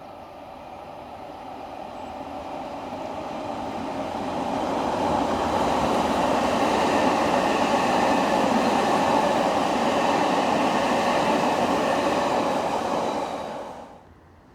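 Odakyu electric train approaching and running past, its rolling noise building over the first five seconds and holding steady. The sound cuts off suddenly about a second before the end.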